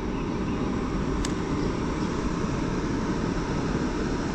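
Spillway water rushing steadily, swollen by heavy rain, a low, even rumble; a faint click about a second in.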